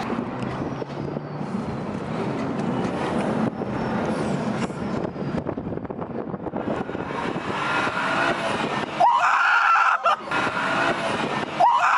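BMW 335i's turbocharged 3.0-litre inline-six, with its mid muffler deleted, running as the car drives in traffic. About nine seconds in and again at the end come two loud high-pitched sounds over it.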